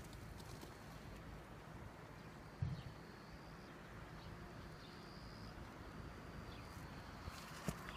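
Quiet outdoor garden ambience: a single low thud a little over two and a half seconds in and a sharp click near the end, over faint high trills that come and go about a second at a time.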